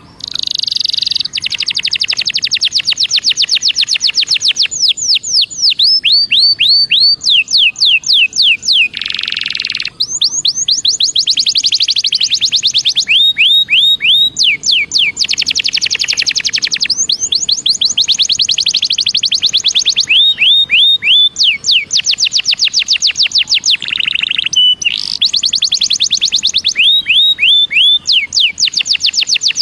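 Belgian canary singing a long, loud, continuous song: fast trills of rapidly repeated notes alternating with slower runs of downward-sweeping whistles, with brief buzzy phrases in between.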